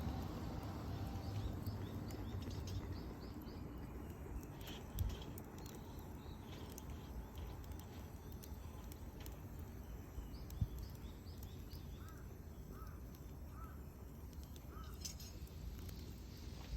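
Birds calling over a steady low rumble: runs of high chirps, then four short arched calls near the end. A few sharp pops from the burning wood of a bonfire, about five seconds in and again past the ten-second mark.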